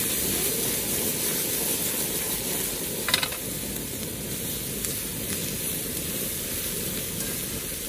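Chopped vegetables (bell peppers, mushrooms, broccoli) sizzling as they are stir-fried and tossed in a pan over a portable gas burner. A short clink about three seconds in.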